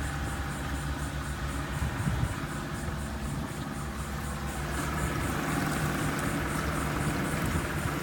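Motor running steadily with a low hum, with a faint high pulsing several times a second over it.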